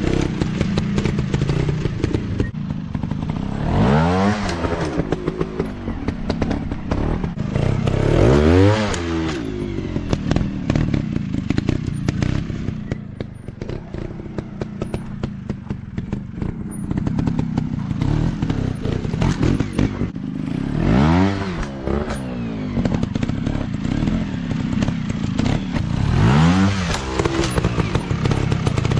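150cc dirt bike engines running and revving hard four times, each rev sweeping up and back down in pitch: about four seconds in, near nine seconds, around twenty-one seconds and near the end. Between the revs the engines keep running lower, with frequent clicks and clatter.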